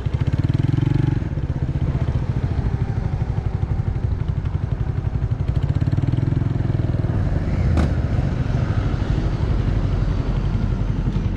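Restored SYM Wolf motorcycle's engine running steadily as it is ridden, with quick even firing pulses. It pulls harder briefly at the start and again about six seconds in. There is one sharp click near eight seconds.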